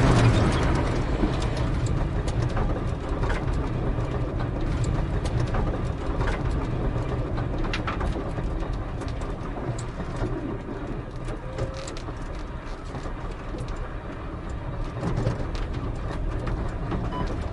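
Mitsubishi Mirage rally car running on with its engine silent after an engine blow: a steady low rumble with scattered sharp clicks and knocks, and no engine note.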